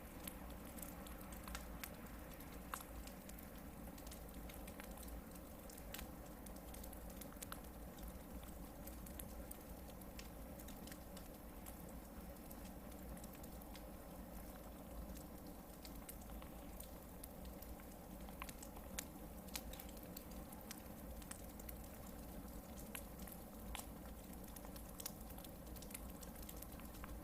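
Hardwood campfire burning, with irregular sharp crackles and pops from the logs over a faint steady rumble.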